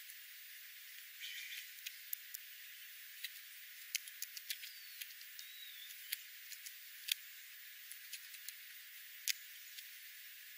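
Faint hiss with scattered sharp clicks and a couple of faint high chirps about halfway through.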